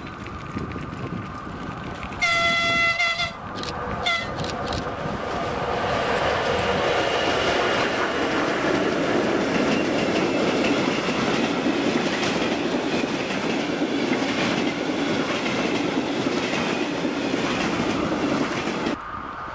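An electric locomotive hauling a freight train sounds its horn: one blast of about a second, then a short toot. Its train of empty flat wagons then passes close by with steady wheel clatter on the rails, building up and then cutting off abruptly near the end.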